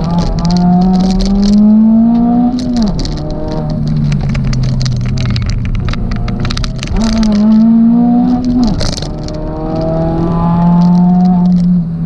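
Suzuki Swift Sport ZC32S's 1.6-litre four-cylinder engine pulling hard under full throttle, its revs climbing steadily and then dropping off sharply three times as it shifts or lifts. Many short sharp ticks and clatters run over the engine sound throughout.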